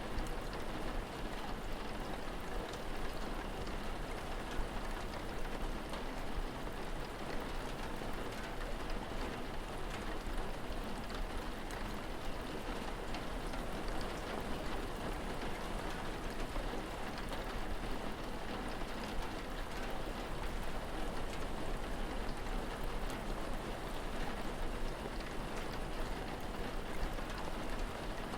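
Steady rain falling, an even hiss with small drop ticks scattered through it.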